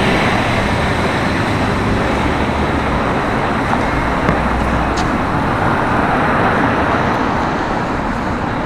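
Steady city street traffic: a continuous wash of engine and tyre noise from passing cars, with a brief tick about five seconds in.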